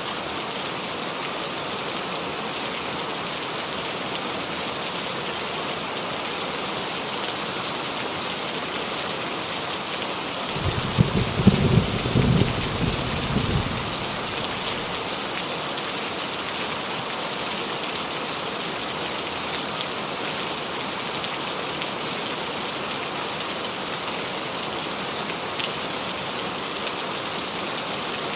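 Steady rain falling on a roof. About ten seconds in, a rumble of thunder lasts some three seconds.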